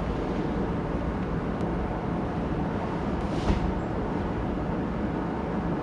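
Electric air blowers running steadily, inflating an inflatable paint booth: a constant rushing drone. A brief knock about three and a half seconds in.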